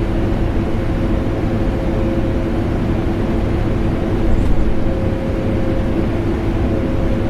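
Vacuum cleaner motor running steadily, a continuous whooshing drone with a constant hum in it, layered with air-conditioner noise.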